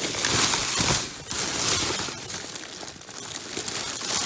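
Plastic bags and packaging crinkling and rustling unevenly as items are dug through and handled.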